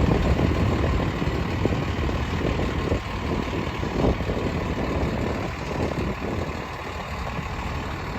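Freightliner M2 106 Plus vacuum truck running steadily, its engine idling, with a few faint knocks.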